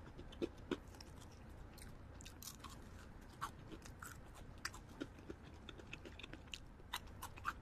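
Close-up chewing of crispy fried chicken: soft, irregular crunches and wet mouth clicks, a few sharper ones about half a second in and again near the end.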